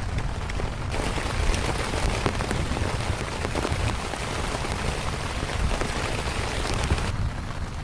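Heavy rain falling, a dense patter of countless drop hits over a steady low rumble. The crisp patter comes in suddenly about a second in and drops away just as suddenly near the end, leaving the low rumble.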